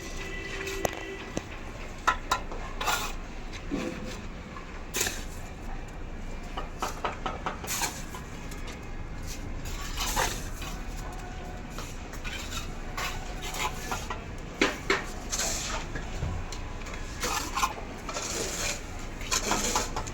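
Steel mason's trowel clinking and scraping against bricks and mortar: irregular metallic taps with longer scrapes in between.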